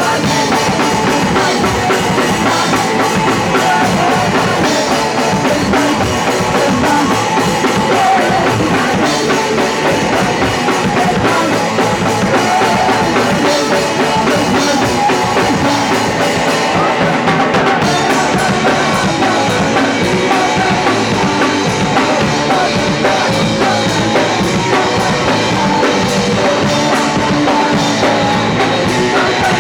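Live punk rock band playing loud, with fast, dense drumming and distorted guitar in a small club, the sound muddy and overloaded.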